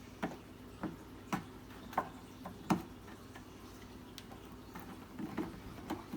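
Small fountain pump being handled and pressed into its plastic basin: a run of sharp plastic clicks and light knocks, about one every half second at first, then a few scattered ones near the end.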